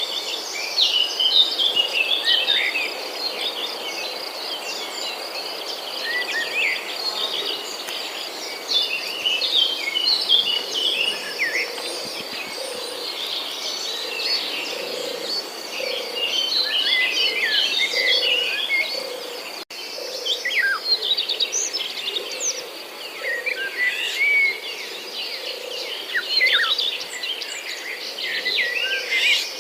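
Several small birds chirping and calling at once: many short, quick notes and upward flicks, over a high, rapid, steady trill.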